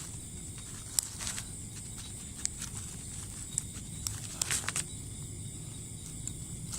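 Steady high-pitched insect drone, with a few short rustles and clicks of movement through vegetation, the sharpest about a second in and a cluster around the middle.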